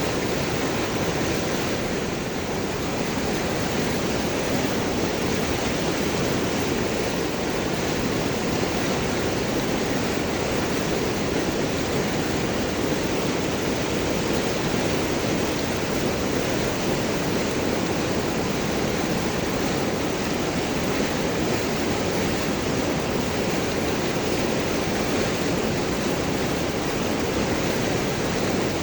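River water flowing and gurgling over and around large rocks, a steady, even rush.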